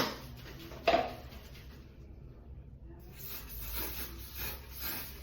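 A sharp click and a knock in the first second as the Aussie Mega hairspray can is handled, then about three seconds in the can starts spraying onto the braids: a high hiss in a series of short sprays.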